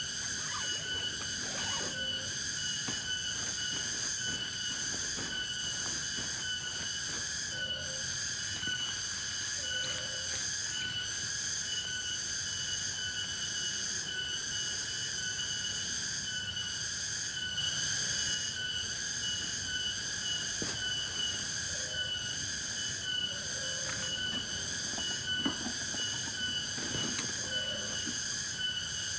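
Night insect chorus in forest, a dense high-pitched shrill in several steady pitches, pulsing evenly. A few faint, short, lower calls come and go over it.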